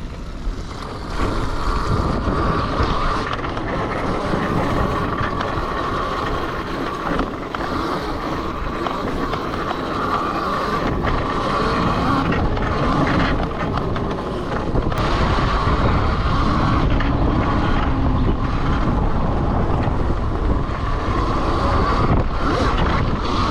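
Honda CRF electric dirt bike, converted with an Elmofo kit, being ridden, with wind buffeting the microphone and a steady whine from the electric drive.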